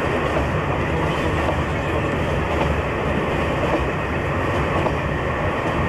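Steady running noise of a passenger train, heard from inside a sleeper carriage: the wheels running on the rails and the coach body rattling, an even noise with no single loud event.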